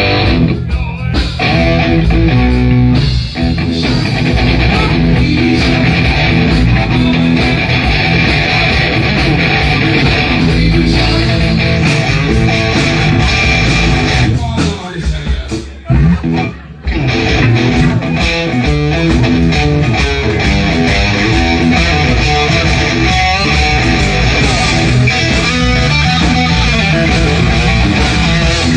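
Loud amplified band music led by electric guitar over bass, dipping briefly about halfway through.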